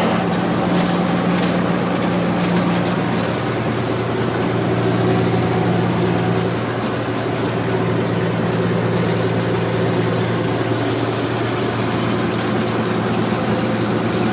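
Truck engine running steadily: a constant low drone with an even hiss over it.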